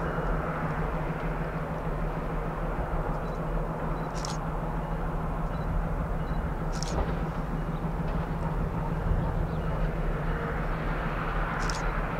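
Freight train running by on the line: a steady low diesel drone with rumbling noise, and three brief high squeaks over it.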